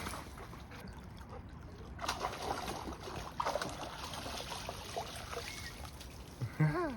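River water splashing and trickling as a small dog chases ducks through it, with scattered splashes about two and three and a half seconds in. A short pitched call sounds near the end.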